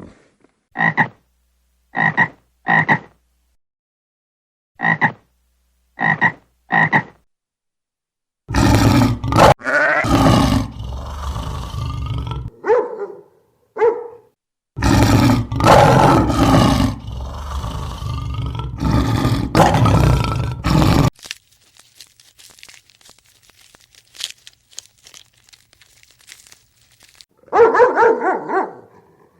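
Animal calls: six short pitched calls in the first seven seconds, then longer, louder calls, a faint stretch, and more calls near the end.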